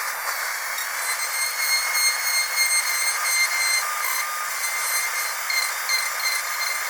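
Dentist's drill whining steadily at a high pitch over a constant hiss.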